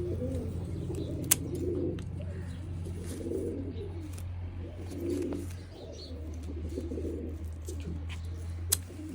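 Pigeons cooing over and over in low, wavering calls, with a steady low hum underneath. Two sharp clicks, about a second in and near the end.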